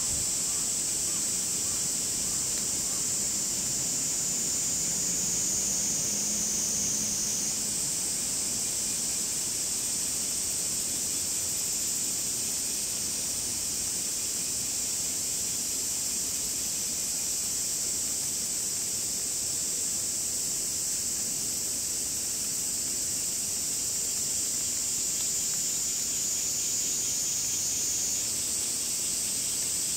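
A cicada's continuous high-pitched buzz. It dips slightly in pitch twice and snaps back up, over a soft steady hiss of wet outdoor ambience.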